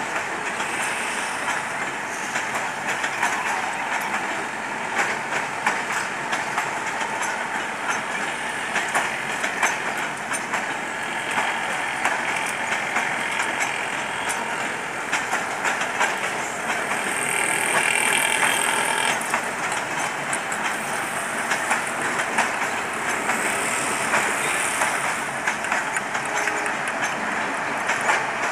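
Passenger train running on the track: a steady rumble and rush of the coaches with a constant clatter of wheels over rail joints, a little louder for a couple of seconds past the middle.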